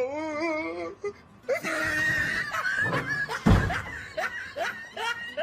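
A person laughing and squealing, with a dull thump about three and a half seconds in.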